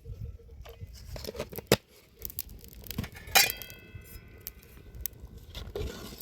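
Hard objects knocking and clinking now and then, with one loud clink about three and a half seconds in that rings on for over a second.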